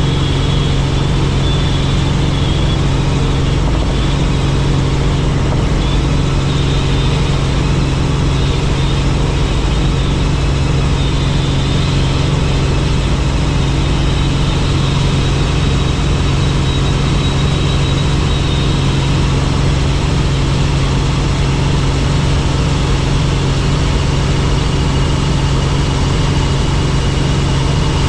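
Helicopter running steadily: a loud, constant engine and rotor drone with a steady low hum and a faint high whine above it.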